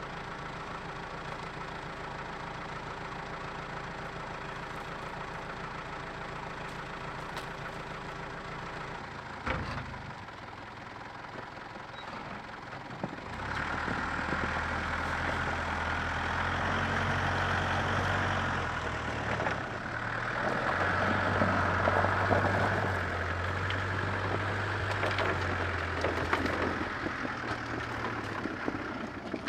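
An engine runs steadily. About a third of the way in there is a knock and the engine sound drops away for a few seconds. It then comes back louder and heavier until the end, with some rattling noise over it.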